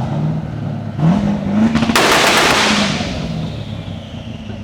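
Twin-turbo Corvette Z06 V8 accelerating hard, its engine note climbing in two steps. About two seconds in a loud rushing hiss breaks out and fades over the next two seconds as the engine note drops away.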